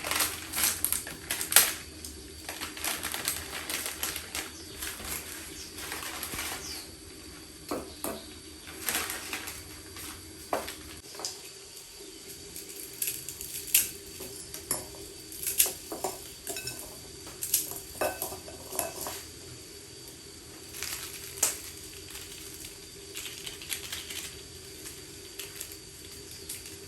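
Irregular clinks and knocks of small hard, metallic objects being handled and set down, over a steady low hum.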